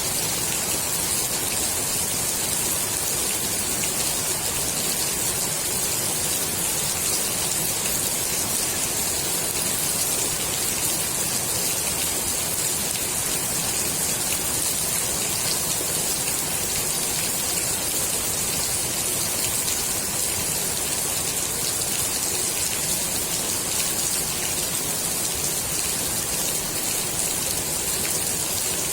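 Steady rain falling on the water of a swimming pool: a dense, even hiss of countless drops striking the surface, brightest in the high range, unchanging throughout.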